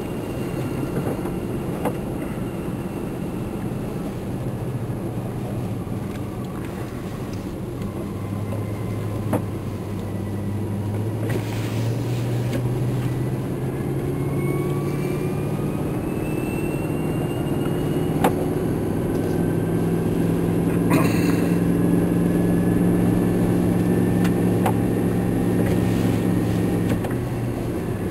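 Vehicle engine and road noise heard from inside the cabin while driving. The engine note climbs gradually through the middle and drops back near the end.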